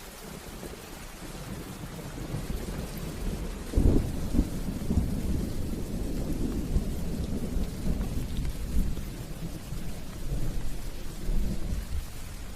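Steady rain with a roll of thunder: the low rumble builds over the first few seconds, breaks into a loud crack about four seconds in, and keeps rumbling after it.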